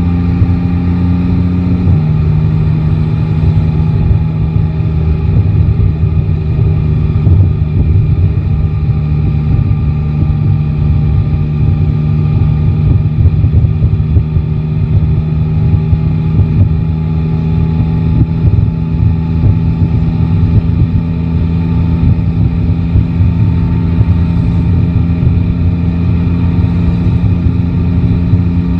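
Yamaha Tracer 9 GT's three-cylinder engine running at steady moderate revs while riding. Its pitch drops a step about two seconds in, holds, then rises slightly near the end.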